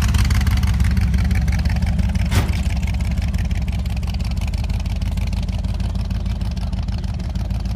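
Car engine and exhaust running with a low-pitched note that slowly fades, as a car drives away. One sharp click sounds about two and a half seconds in.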